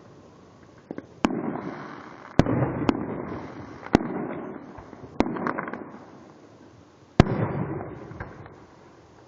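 Fireworks going off: five sharp bangs over about six seconds, each followed by a fading crackle and rumble, with a few smaller pops between them; the loudest bang comes near the end.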